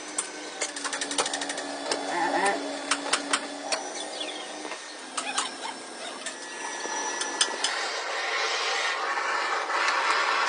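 Mechanical clicking and tapping, several sharp clicks in quick runs, over a faint steady hum, then an even hiss that builds from about seven seconds in.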